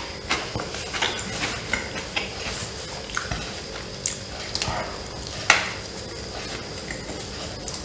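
Close-miked eating sounds of a man biting into and chewing a soft bread-roll sandwich filled with ham, crab surimi, mozzarella, salad and sauce: a run of wet mouth smacks and squishes, with one sharper, louder click about five and a half seconds in.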